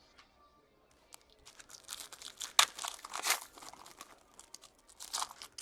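Trading-card pack wrapper being torn open and crinkled: a run of crackly rustles about a second and a half in, loudest in the middle, with a last crinkle near the end.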